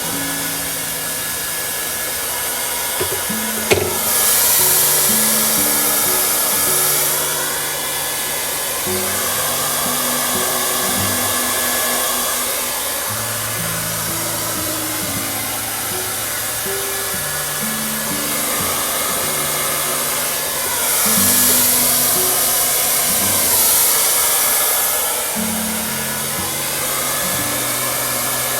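Hair dryer blowing steadily, its hiss getting louder twice, with a sharp click about four seconds in. Soft background music with slow stepping low notes plays underneath.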